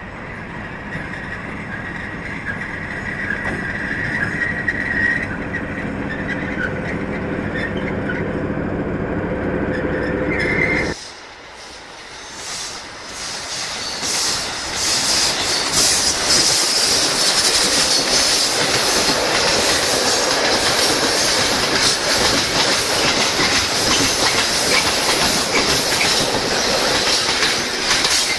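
A train: a locomotive's engine hum growing louder for about ten seconds. After a sudden break, rail cars roll past with clattering wheels and a steady high squeal.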